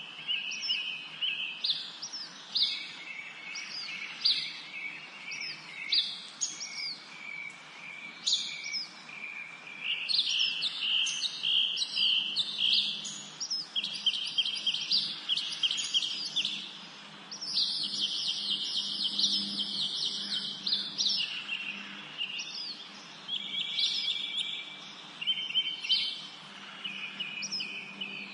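Several songbirds singing and chirping at once in a spring forest: a dense chorus of short trills and quick downward-sweeping whistled notes, with a faint low steady hum beneath.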